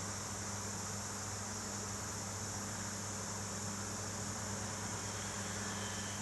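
Steady room tone: a low hum with an even hiss, no separate events.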